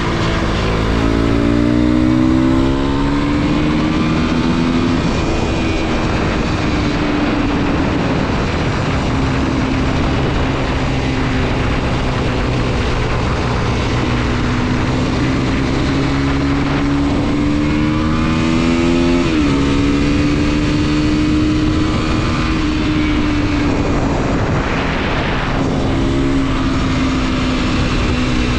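A Mondial SMX 125's 125 cc single-cylinder four-stroke engine under way. Its note climbs as the bike accelerates, drops sharply with upshifts about five seconds in and again about two-thirds of the way through, and holds fairly steady between, over a steady rush of wind.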